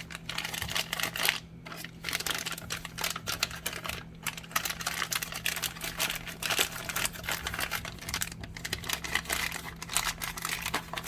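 Packaging and small accessory parts being handled: dense, irregular clicking and rustling of plastic and cardboard, over a steady low electrical hum.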